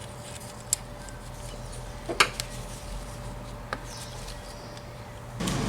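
Three sharp metal clicks about a second and a half apart, as screws are driven back into the carburetor's top cover with a Phillips screwdriver. A louder steady noise starts near the end.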